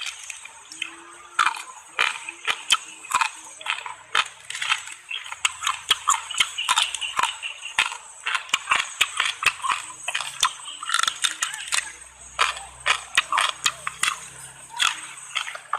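Irregular crunching and clicking, many short sharp snaps in quick uneven succession: the sound of someone chewing and crunching through roasted quail.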